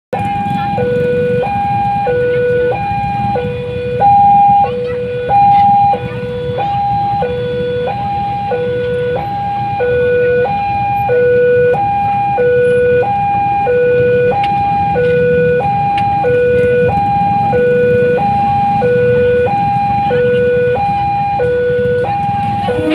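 Level-crossing warning alarm sounding a steady two-tone alternation, high then low, about one high-low cycle a second: the signal that a train is approaching and the barrier is down. A low rumble runs underneath, and the alarm gets briefly louder twice near the start.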